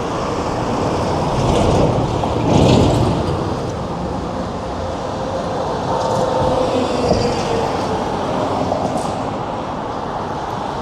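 City traffic and road noise heard from a moving bicycle, with a steady rumble of wind on the microphone; a vehicle swells past about two to three seconds in.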